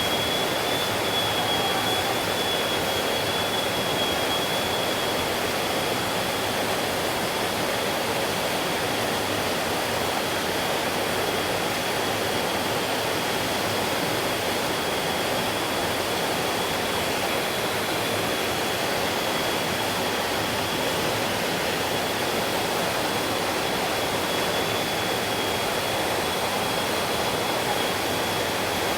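Mountain stream flowing steadily over rocks: an even, unbroken rush of running water. A faint steady high-pitched tone sits above it.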